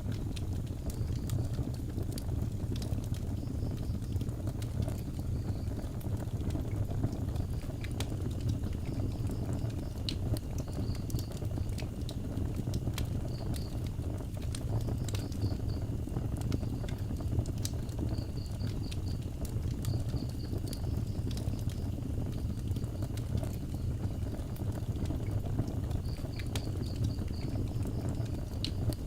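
Wood fire burning outdoors: a steady low rumble of flame with frequent sharp crackles and pops. A faint high chirping repeats in short trains throughout.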